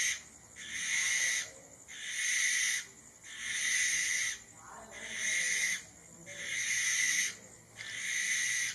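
A bird's harsh, hissing screech, repeated in a steady rhythm of about one second-long call every second and a half.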